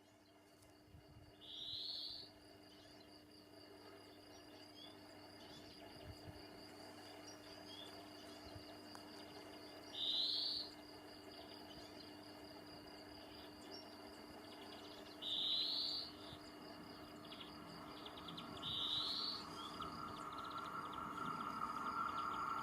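Four short bird calls over a steady insect trill in open countryside. An approaching train grows slowly louder underneath, rising most in the last few seconds.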